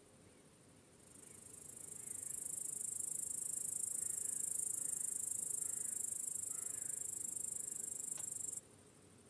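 Crickets chirping: a dense, very high-pitched chorus that swells in over about a second, holds steady, then cuts off suddenly near the end.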